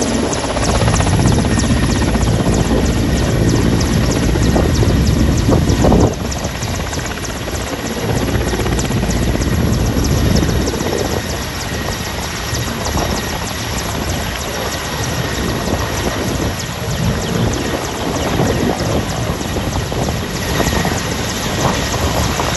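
Helicopter taking off: loud rotor and engine noise with a faint steady high whine, dropping abruptly in level about six seconds in.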